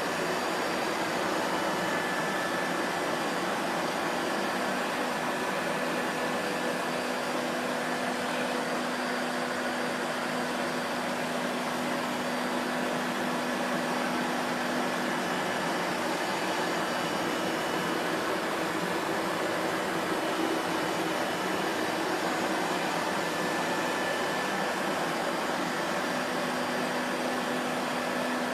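Vacuum cleaner motor running steadily: an even whooshing rush of air with a faint hum held at a constant pitch.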